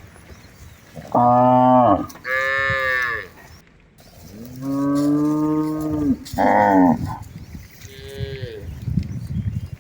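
Village cattle mooing about five times in a row, some calls lower and some higher in pitch; the longest moo lasts about two seconds, midway through. A brief rough, noisy sound follows near the end.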